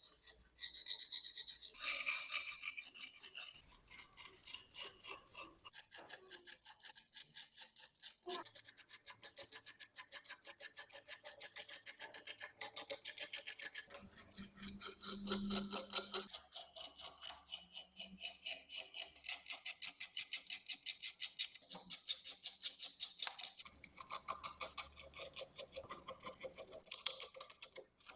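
Rapid back-and-forth hand scrubbing on rusty metal, several strokes a second, loudest through the middle stretch.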